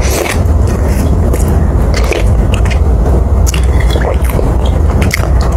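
Close-miked wet chewing and mouth clicks of a person eating tapioca meatballs (bakso aci) in spicy broth, over a steady low hum.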